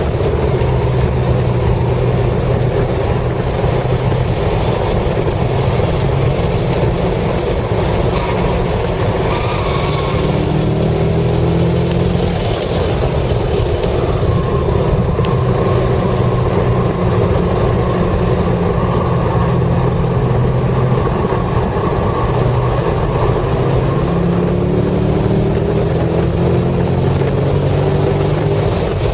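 Chevrolet Corvette C6 Z06's 7.0-litre LS7 V8 under hard track driving, heard from inside the cabin. The revs climb under acceleration about ten seconds in and again near the end.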